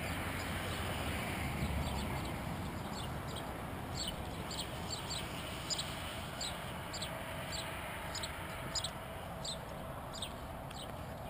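Small birds chirping: short high chirps, a few a second, beginning about three seconds in, over a steady low background rumble.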